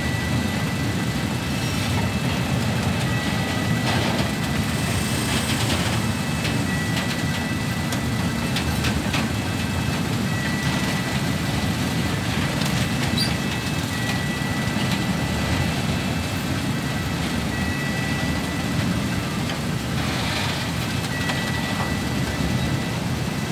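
Freight train of container flatcars rolling slowly past: a steady low rumble with occasional clicks, and a short high tone that repeats about every three and a half seconds.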